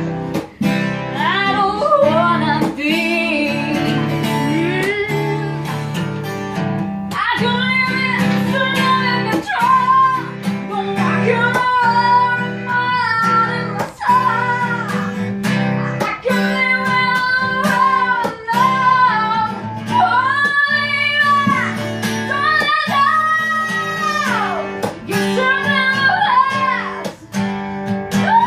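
A voice singing a melody with long held notes over strummed acoustic guitar.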